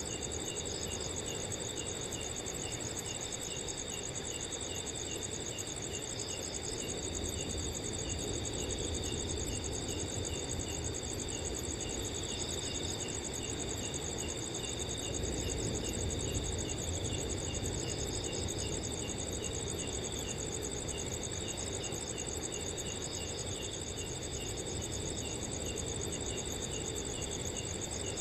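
Several crickets singing together at night: a continuous high trill over a regular chirping at about two chirps a second, with occasional short extra bursts. Beneath them runs a low, steady rush of wind.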